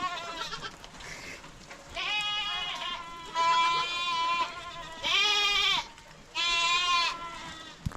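Livestock bleating: about four quavering bleats in a row, each about a second long.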